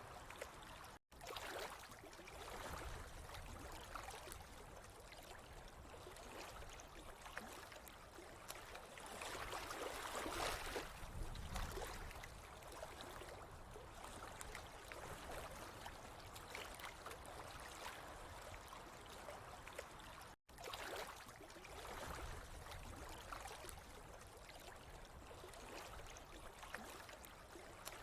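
Water flowing and trickling steadily, swelling a little now and then, with two momentary dropouts to silence, about a second in and about twenty seconds in.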